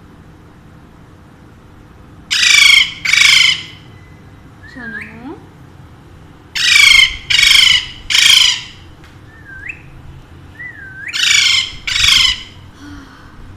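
Alexandrine parakeet giving loud, harsh squawks: seven calls of about half a second each, in a pair, then a group of three, then another pair. Softer short rising whistle notes come between the groups.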